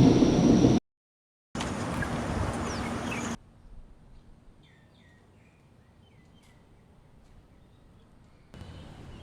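A loud low rumble cuts off abruptly under a second in, leaving a short dead silence; a couple of seconds of hissing noise follow, then quiet outdoor ambience with a few bird chirps, and a steady low background hum comes in near the end.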